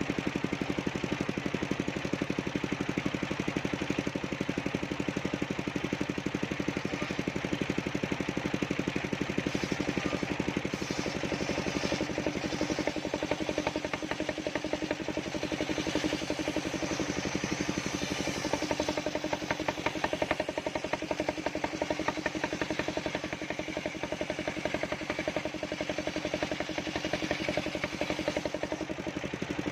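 Engine of a mobile circular sawmill running steadily with an even firing beat, its tone shifting and growing brighter for a few seconds around the middle.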